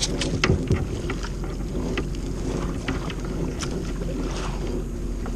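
Choppy water lapping and slapping against a kayak's hull, with wind on the microphone and a steady low rumble underneath. Scattered small knocks and clicks sound throughout.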